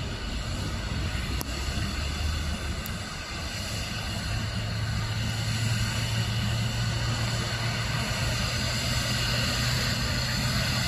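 Airliner jet engines running, heard from a distance: a steady hiss with a low hum that grows stronger about four seconds in.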